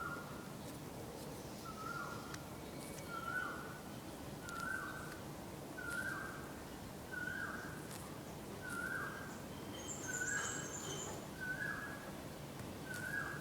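A bird calling over and over, a short note that drops in pitch, repeated about every second and a half. A second, higher-pitched bird chirps faintly near the end.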